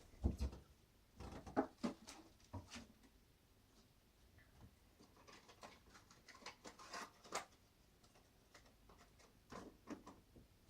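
Scattered small clicks, taps and rustles of small objects being handled on a work surface, irregular, with the sharpest knocks just after the start, around two seconds in and around seven seconds in.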